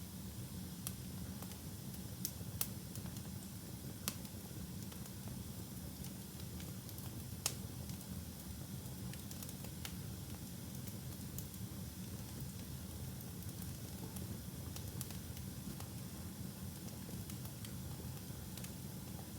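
Wood fire burning in a fireplace: a steady low rumble and hiss with scattered sharp crackles and pops, the loudest pops a little after 2 s, around 4 s and around 7.5 s in.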